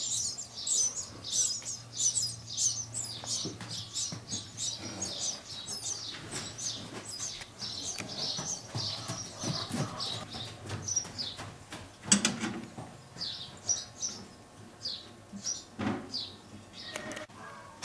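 Small birds chirping and twittering quickly and continuously, high-pitched. A dull thump about two-thirds of the way in is the loudest sound, with another thump near the end.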